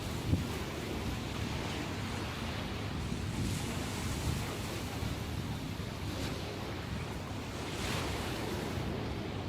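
Sea waves surging and breaking on the shore after a typhoon, with wind buffeting the microphone. A few brighter breaking washes come through, one about three and a half seconds in, one past six seconds and one near eight seconds, plus a short low knock just after the start.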